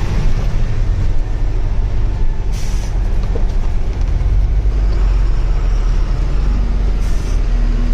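Heavy truck engine running under way as a steady low rumble, with two short hisses of air, one about two and a half seconds in and one near the end.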